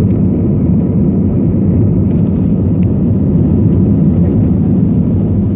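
Airliner during takeoff: a steady, loud, low rumble of jet engines and airflow, with no rise or fall.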